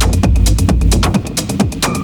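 Hard techno at 132 BPM, with a driving kick and busy hi-hats repeating in an even pattern. About a second in, the deep bass cuts out and the percussion carries on.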